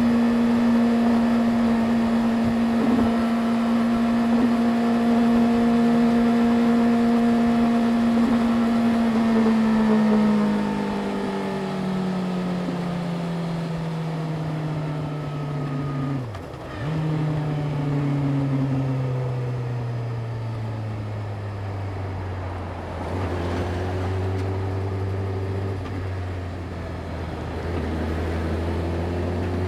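Yamaha YZF-R6's inline-four engine running at steady high revs for about ten seconds, then winding down slowly as the bike slows, with a brief break about halfway through, and running low and steady near the end.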